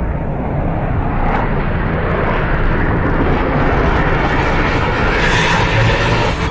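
Jet aircraft engine noise: a loud, steady rushing that grows slightly louder.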